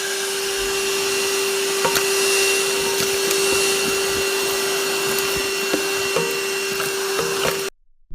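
Cordless stick vacuum running steadily with a constant whine, picking up wood chips and small sticks that rattle and click through it at irregular intervals. It cuts off suddenly near the end.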